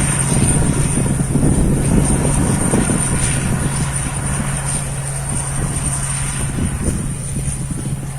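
Rice combine harvester running steadily while cutting rice: a continuous engine drone, with a thin, steady high whine above it.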